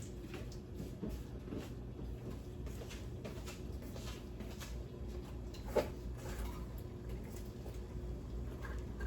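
Quiet kitchen sounds during cooking: a steady low hum with scattered light clicks and rustles of pots and utensils, and one sharper knock a little before six seconds in.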